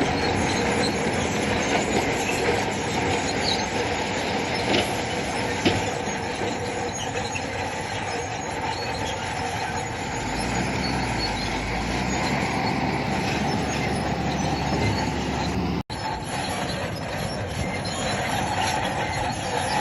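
Crawler bulldozer at work: its diesel engine running under load with the metallic clatter and squeal of its steel tracks. The sound drops out for an instant about 16 seconds in.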